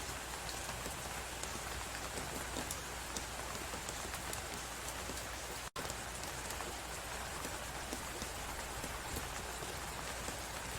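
Steady hiss of blizzard wind with a fireplace crackling over it in small scattered pops. The sound cuts out for an instant a little past halfway.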